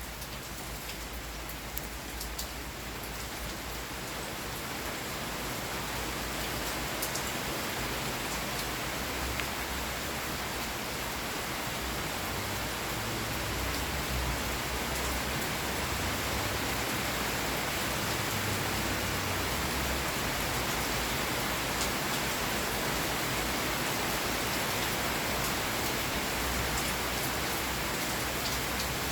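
Steady rain falling, an even hiss that grows a little louder over the first few seconds and then holds steady.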